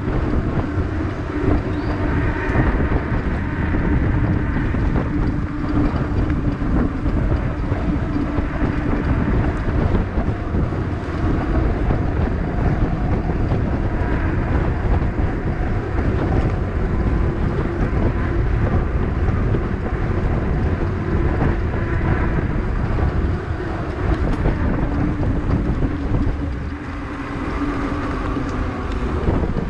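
Wind buffeting the microphone while riding a fat-tire electric bike over wet pavement, with a steady hum from the bike under it.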